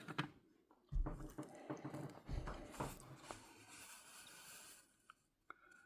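Faint soft knocks and rustling, a few light taps among them, fading out a little before the end.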